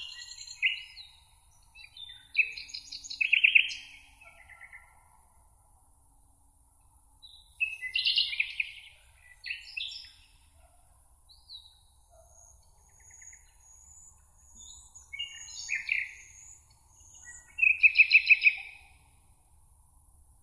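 Songbirds singing in a meadow: several separate bursts of quick, trilled, warbling song a few seconds apart, with a fainter high thin twittering in between.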